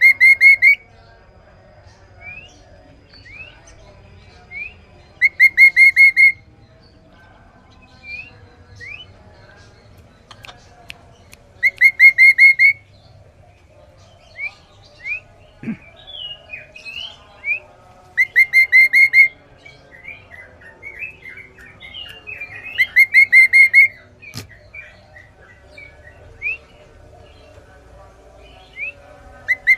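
Kaso-kaso bird singing in loud, clear bursts of rapid repeated high notes, each about a second long, coming every five or six seconds. Fainter chirps and short falling calls fill the gaps.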